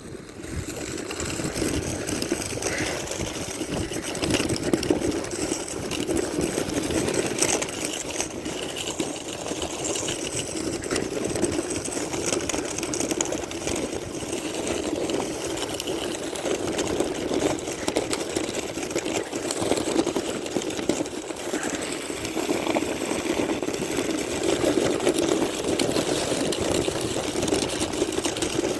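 Sled runners sliding over snow on a downhill run: a steady, rough scraping with many small clicks and knocks.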